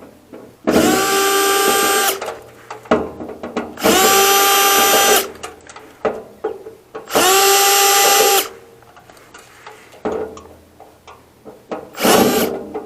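Power drill on a long bit extension backing out screws. It runs in three bursts of about a second and a half each, its motor pitch rising as each one starts, then a shorter burst near the end. Small clicks come between the bursts.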